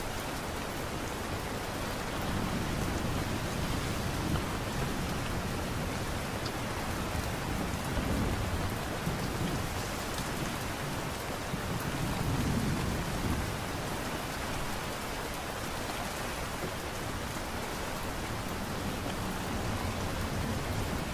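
Steady light rain, an even hiss of falling drops, with a few low rumbles that swell and fade.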